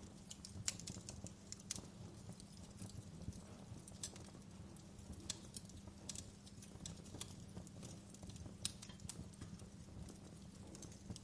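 Wood fire crackling in a fireplace: irregular sharp pops and snaps, several a second and uneven in strength, over a steady low rumble of the flames.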